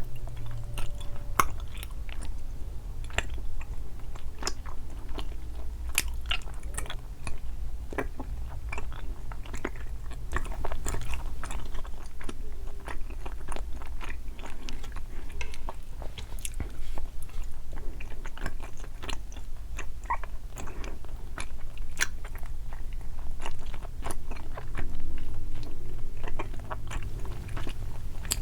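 Close-miked chewing and biting of sweets (jelly and chocolate balls), a dense run of small wet clicks and light crunches.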